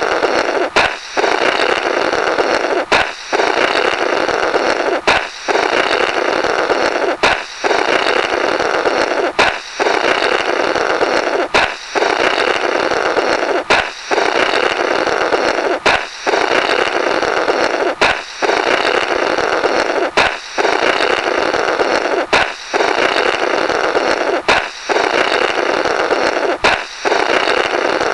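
A comical "blorrrt" sound effect: a balloon pop followed by a raspy blowing sound through the burst balloon. It repeats as a loop about every two seconds, each cycle starting with a sharp snap after a brief gap.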